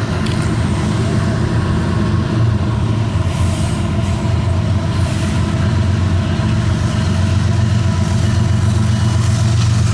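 Diesel locomotive of a CSX intermodal train running steadily with a deep engine hum, getting slightly louder toward the end.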